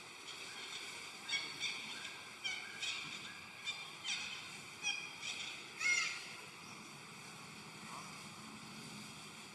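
A monkey giving a series of about eight short, high-pitched squeaking calls over five seconds. The last call is the loudest and falls in pitch.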